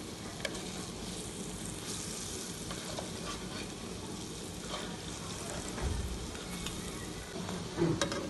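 Lentil-batter patties shallow-frying in oil in a non-stick pan, sizzling steadily, with scattered scrapes and taps of a metal slotted spatula as they are turned, and a louder knock near the end.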